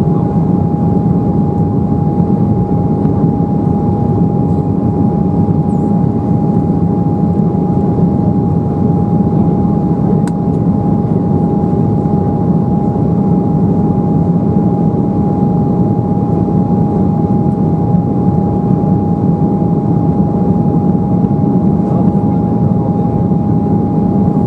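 Steady cabin noise inside an Embraer 190 airliner in flight: its GE CF34-10E turbofan engines and the airflow make a constant rushing drone, with a steady whine running through it.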